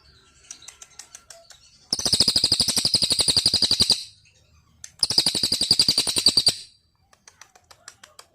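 Songbird song: two rapid trills, each about two seconds long with roughly a dozen high notes a second, the first starting about two seconds in and the second about five seconds in, with scattered short chips around them.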